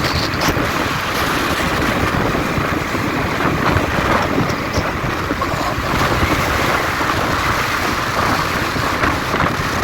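Steady wind rush over the microphone on a moving motorbike, a loud, even noise without a break.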